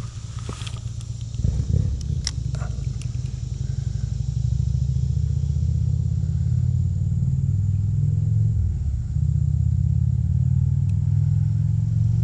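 A motor running steadily with a loud, low hum, dipping briefly about two-thirds of the way through. A few sharp clicks and clatters come in the first few seconds.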